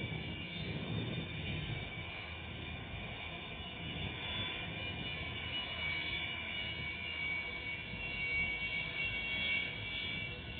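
Jet aircraft engines running, a steady high whine over a low rumble.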